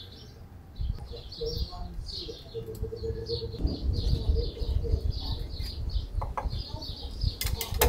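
Small birds chirping over and over, short high chirps about two to three a second, over a low uneven rumble.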